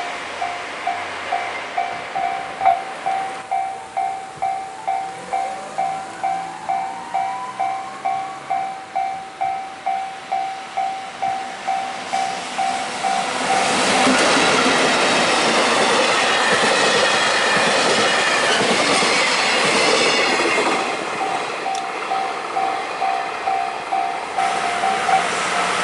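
Japanese level-crossing warning bell ringing in quick, evenly spaced electronic dings, about two a second. About 14 seconds in, a train rushes over the crossing with squealing wheels, and the bell is heard again as the train clears.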